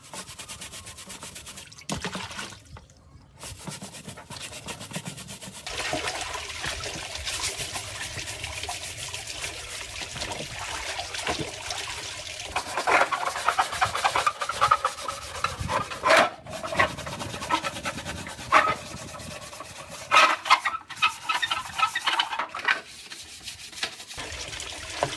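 Rubbing and scrubbing on the fan's parts in a series of short edited segments, a steady scratchy noise with sharper strokes in the second half.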